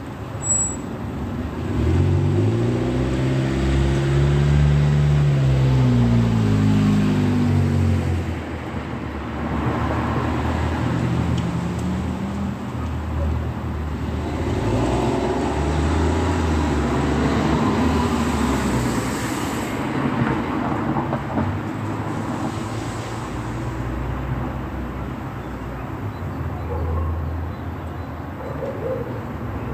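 Road traffic passing, one vehicle's engine rising and then falling in pitch as it goes by about two to eight seconds in, followed by further vehicles passing with a steady rumble.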